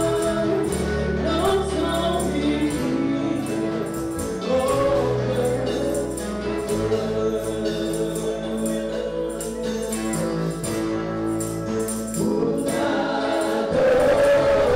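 Congolese gospel music: a choir singing over steady bass and percussion.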